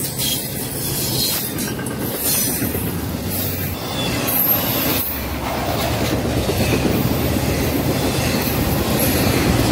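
Intermodal freight train's container and trailer cars rolling past close by: a steady rumble and clatter of steel wheels on the rails, with brief high wheel squeals now and then.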